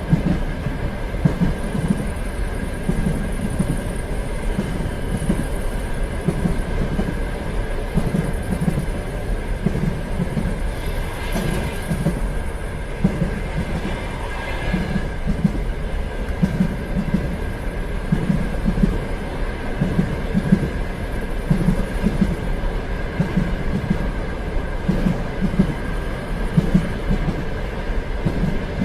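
Train running along the track, with a steady rumble and a repeated clatter of wheels over rail joints about once a second, under a faint steady whine.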